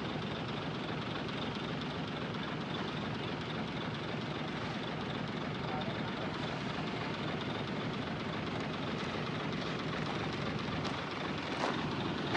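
Heavy diesel earthmoving machinery running steadily under load, with a few sharp metallic knocks near the end.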